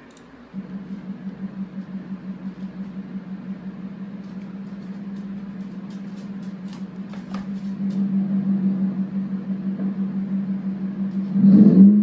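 4.7L V8 truck exhaust through a Borla Pro XS muffler, running steadily with a pulsing drone that grows louder, and a louder burst of throttle near the end. It is quieter than straight pipes, with a raspy note when the gas is let off.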